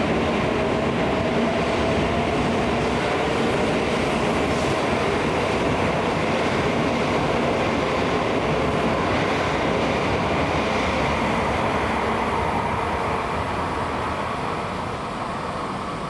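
Shinkansen train running past at the platform, a loud steady rush of wheel and running noise that eases off a little in the last few seconds.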